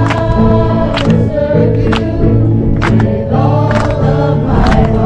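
Christian worship song: voices singing over held chords, with a drum striking steadily about once a second.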